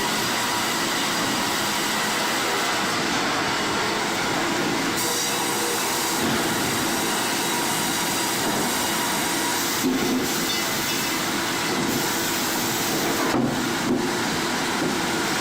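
Sawmill machinery running, a loud steady mechanical noise with no break, dipping briefly twice in the second half.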